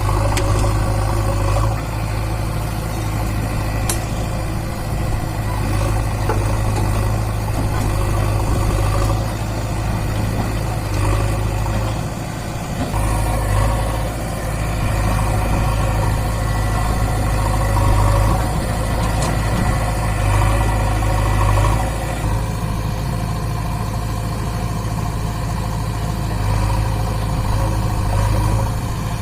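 Swaraj 744 FE tractor's three-cylinder direct-injection diesel engine running steadily, its level swelling a little every few seconds.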